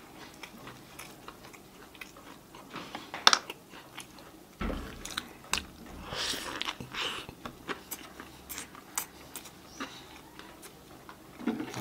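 Close-miked chewing of a pork burger, with many short wet mouth clicks. About six seconds in comes a bigger bite into the bun and lettuce, a short stretch of crunching noise.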